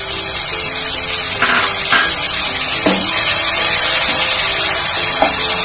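Diced tomatoes sizzling as they hit hot oil and browned onions in a frying pan, a steady hiss that grows louder about three seconds in as they are stirred.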